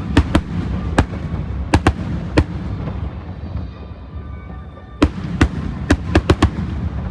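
Aerial fireworks bursting: a run of sharp bangs in the first two and a half seconds, a lull, then a quick cluster of about six bangs between five and six and a half seconds in, over a steady low rumble.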